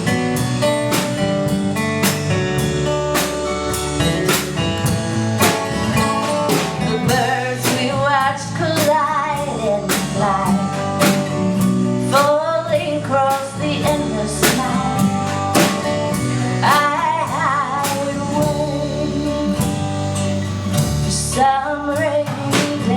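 Live band playing a song: guitar and a drum kit keeping a steady beat, with a wavering melodic lead line, either voice or instrument, coming in above them about seven seconds in.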